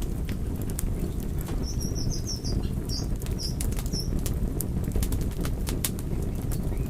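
Wood fire burning with a steady low rumble and frequent sharp crackles and pops. A run of short, high-pitched chirps comes in about a second and a half in and stops around four seconds in.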